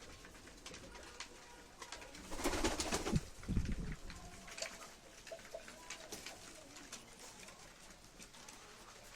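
Domestic high-flyer pigeons cooing in a loft, with a few low coos about two to four seconds in, amid scattered light clicks and rustles.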